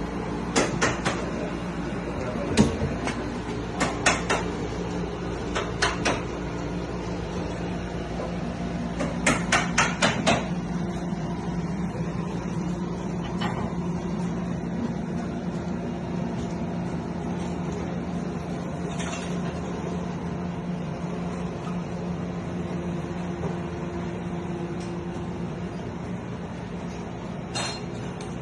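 Sharp knocks on wood in short clusters, like hammer blows, ending in a run of five quick strikes about ten seconds in; after that only a few scattered light clicks. A steady low hum runs underneath.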